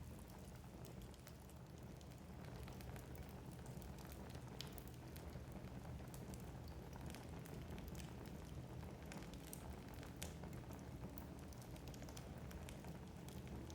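Wood fire burning in a fireplace: a low steady rumble of flames with frequent sharp crackles and pops from the burning logs.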